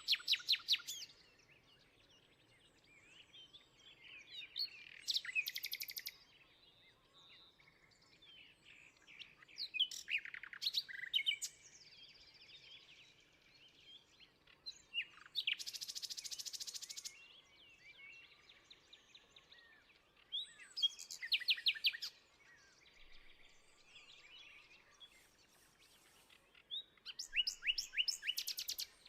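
Songbirds singing outdoors: about six separate song phrases of rapid high notes and trills, each a second or two long, spaced roughly five seconds apart over a faint outdoor background.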